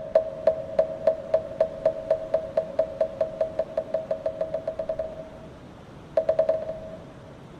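Moktak, the Korean Buddhist wooden fish, struck with a mallet: ringing wooden knocks that speed up and grow softer into a fast roll, stopping about five seconds in, then a short quick flurry of about five knocks near the end.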